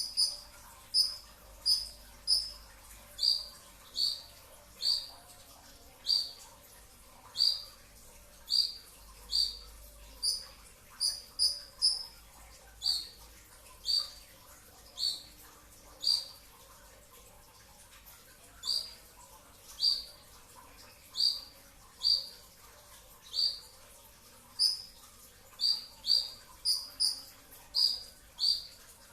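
Brown-throated sunbird (kolibri ninja) calling a long run of short, sharp, high chip notes, about one to two a second, often doubled into quick two-note 'shots'.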